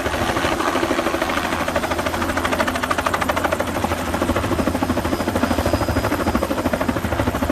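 Helicopter rotor beating in a fast, even chop over the running engine.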